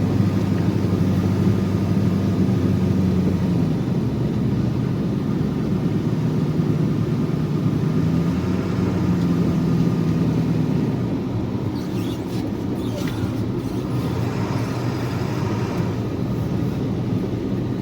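Tractor engine running steadily, its speed dropping a little about four seconds in and changing again around eight seconds in, with some faint clatter later on.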